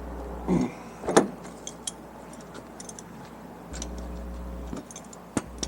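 Light metallic clinks and clicks of hand tools and small metal parts being handled while an air compressor is taken apart, with two louder knocks about half a second and a second in.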